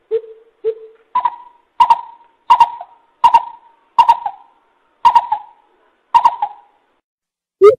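A coucal calling: a series of hooting notes, two low ones followed by about seven higher ones, each starting sharply, roughly one every 0.7 s.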